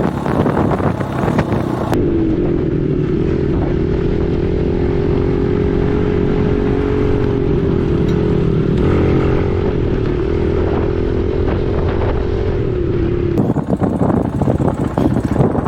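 Dirt bike engine running at a steady speed under riding. For about the first two seconds and the last two it is heavily buffeted by wind on an unshielded microphone, and in between it is a duller, steady drone with little wind.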